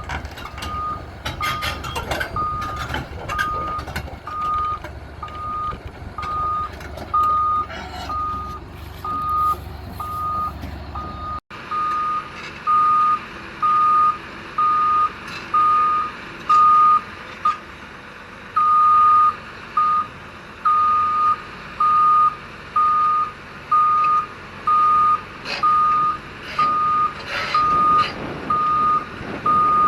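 Backup alarm on heavy equipment beeping steadily, a single high tone a little more than once a second. For the first third a diesel engine rumbles and metal clanks and knocks sound under it; after an abrupt change about a third of the way in, the beeping stands out alone.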